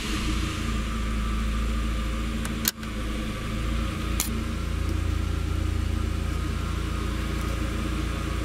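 Volkswagen Golf Mk2's 1.8 turbo four-cylinder (AGU engine) idling steadily at about 1,000 rpm, heard from inside the cabin. A sharp click comes about two and a half seconds in, and a fainter one about four seconds in.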